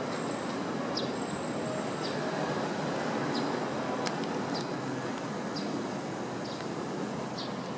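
Strong typhoon wind, a steady rushing noise, with a short high chirp repeating about once a second.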